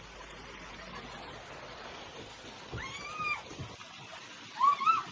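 A cat meowing twice: a drawn-out meow about three seconds in, then a shorter, louder one near the end.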